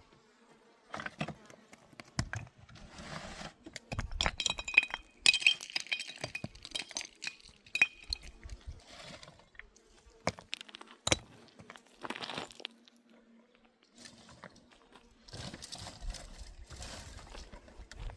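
Clinks and knocks of small hard objects being handled, with a cluster of short ringing clinks about four to six seconds in.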